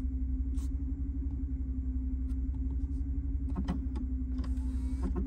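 Low rumble of the Grand Wagoneer's 6.4-litre Hemi V8 idling, heard from inside the cabin, with a steady hum over it and a few faint clicks.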